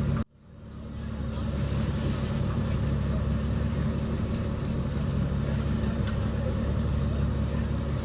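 Fishing boat's engine running steadily with a low drone. The sound cuts out sharply just after the start and fades back up over about a second.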